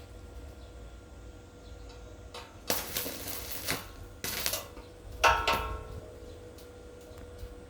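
Metal parts being handled, clinking and knocking against each other a few times, then one louder ringing metal clang about five seconds in.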